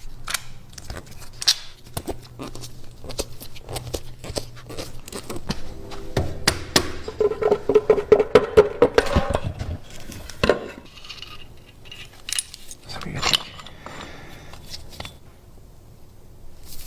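Metal hand tools and engine parts clinking, knocking and scraping against each other. There are scattered sharp clicks throughout, with a denser run of rapid metallic rattling near the middle.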